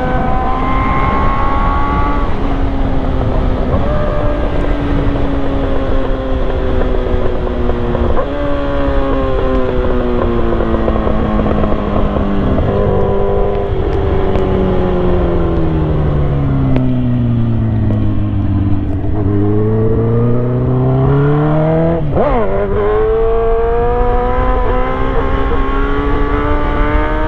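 Yamaha R1's inline-four engine under way: revs climb and drop with a few gear changes, fall slowly for several seconds as the bike slows, then climb again near the end.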